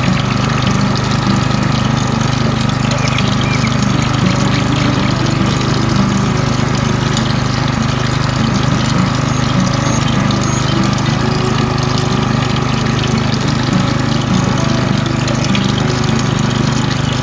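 Small motorized water pump running with a steady hum, with water splashing and trickling.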